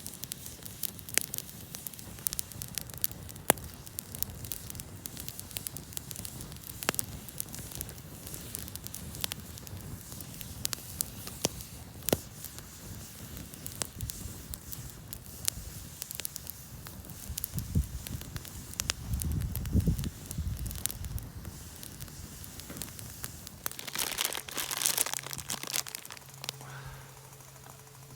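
Wood campfire crackling, with sharp irregular pops and snaps. Near the end a louder rustling, crinkling noise comes in.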